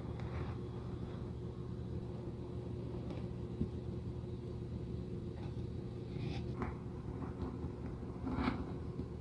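Steady low motor hum, with a few short scraping and rubbing sounds over it, the loudest about eight and a half seconds in.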